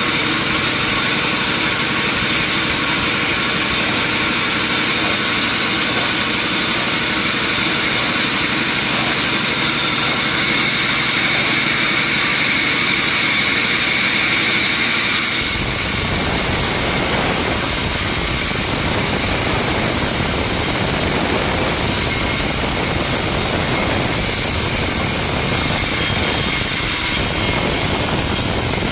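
Sawmill machinery running loudly and steadily with a high whine. About halfway through it changes abruptly to a deeper, fuller noise.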